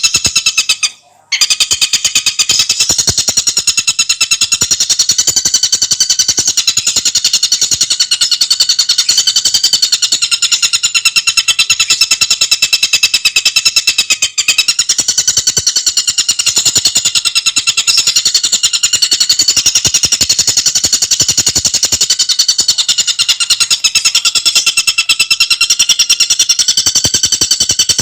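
Tengkek buto bird calling in a fast, unbroken run of rapid, high-pitched chattering notes, with a brief break about a second in.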